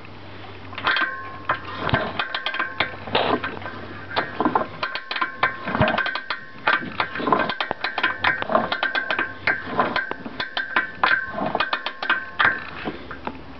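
Irregular metallic clacking and knocking with a brief ringing note after each hit, starting about a second in and stopping near the end: a Maico 400 motorcycle piston knocking in its bore, the piston slap of a worn, loose-fitting piston.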